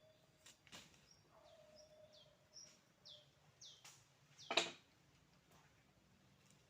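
Faint bird chirps: a short high note falling in pitch, repeated about twice a second. A single sharp knock about four and a half seconds in is the loudest sound.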